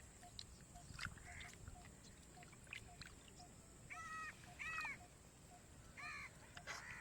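Three short animal cries, each a brief arching call, about four, five and six seconds in, over faint scattered clicks.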